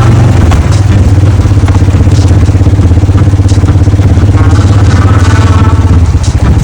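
A vehicle engine running steadily, heard close up as a loud low hum, with a few light clattering knocks over it.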